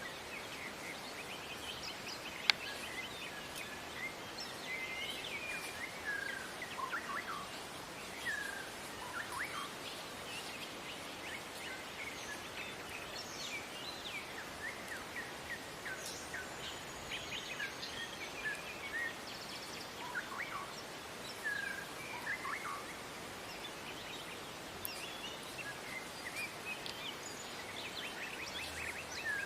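Wild songbirds chirping and calling in many short, scattered notes over a steady background hiss. A single sharp click sounds about two and a half seconds in.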